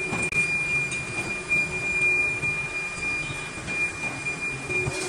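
Metalworking machinery running with a steady high-pitched squeal of metal on metal, typical of a tool cutting a cast brake drum.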